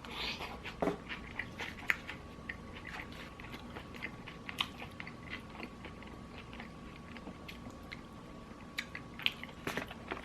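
Close-miked chewing of crispy fried chicken: a steady run of small crunches and clicks from biting and chewing the breaded chicken, over a faint steady hum.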